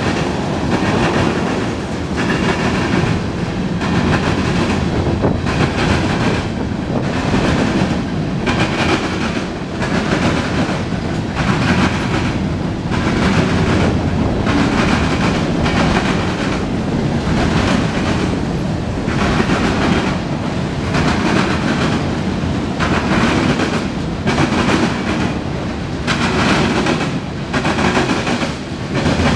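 Freight train cars rolling past close by: a steady rumble of steel wheels on rail, with clicks repeating as the wheelsets cross rail joints.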